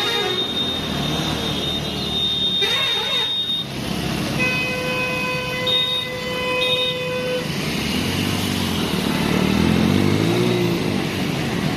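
Road traffic with vehicle engines running. A high steady tone sounds for the first few seconds, and a vehicle horn is held for about three seconds near the middle.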